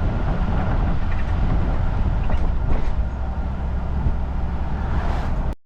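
Steady low road rumble of a vehicle being driven, engine and tyre noise, cutting off suddenly near the end.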